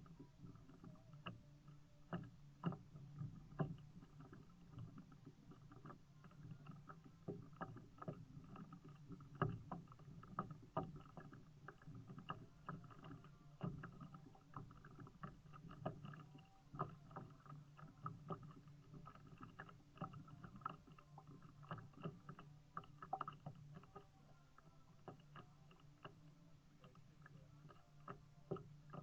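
Kayak on the water: paddle and water sounds with many scattered light clicks and knocks over a steady low hum.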